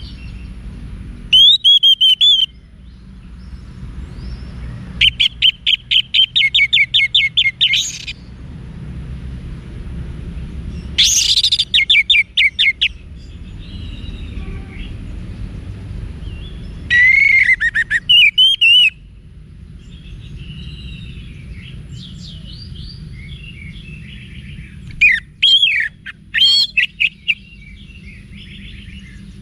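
Wiksar bird song: loud phrases of fast repeated chirps and trills, each one to three seconds long and coming every few seconds, with softer warbling between them, over a steady low hum.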